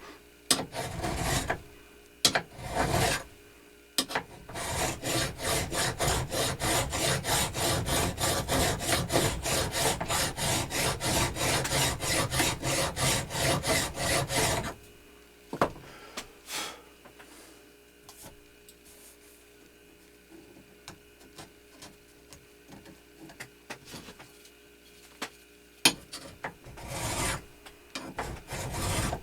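Hand file rasping over metal in quick back-and-forth strokes, about three a second for some ten seconds, then stopping, with a few single strokes before and after.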